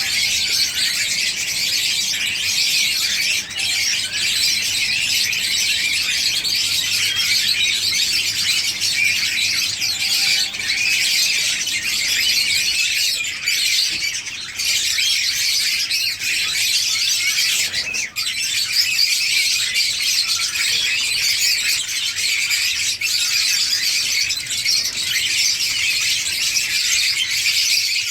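A flock of small cage birds chirping and chattering without pause, many high calls overlapping.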